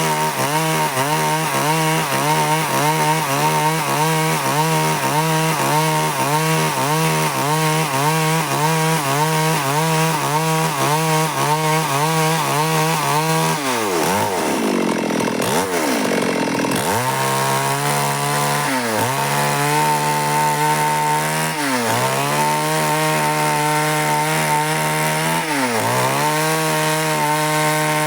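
Stihl chainsaw running under load as it cuts wood. Its engine note wavers rhythmically at first. A little past the middle, and briefly three more times later, the pitch sags and then recovers.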